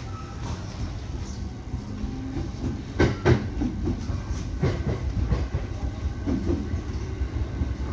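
Electric commuter train running, heard from inside the front car: a steady rumble with the wheels clacking over rail joints, a loud cluster of clacks about three seconds in and more a second or two later.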